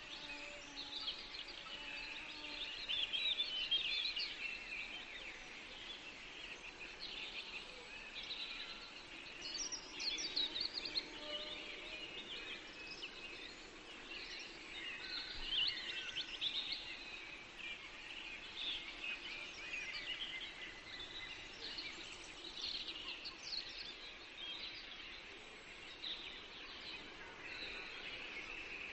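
Several birds singing at once in a forest, a continuous chorus of overlapping chirps, trills and short whistled phrases over a faint steady background hiss.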